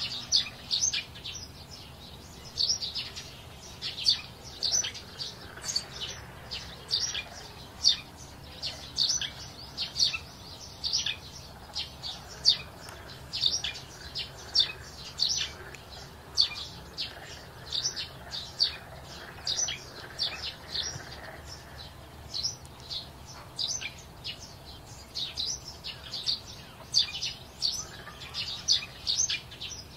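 Small birds chirping over and over in short, sharp, high chirps, a couple a second.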